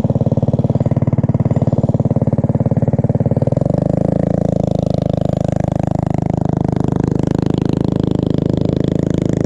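Small mini bike engine running with an even, rapid firing beat, then picking up and growing louder about three and a half seconds in, its pitch sagging and climbing again as the bike is ridden.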